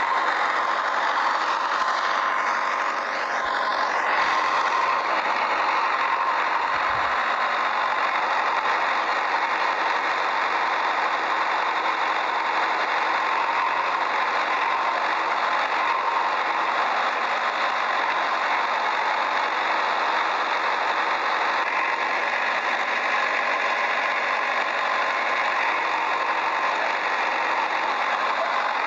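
A small motor running steadily, its sound unchanging throughout.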